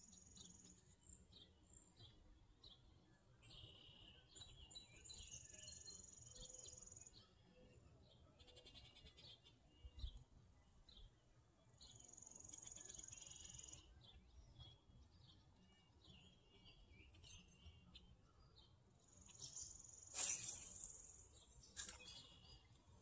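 Faint birds chirping over and over, with repeated high, buzzy trills of a second or two each. A brief, louder swish comes near the end.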